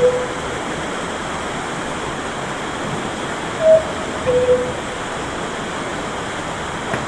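The cuckoo of a giant cuckoo clock calling the hour: a two-note 'cuck-oo', higher note then lower, heard once in full about three and a half seconds in, with the end of a previous call right at the start. Underneath is a steady rushing noise.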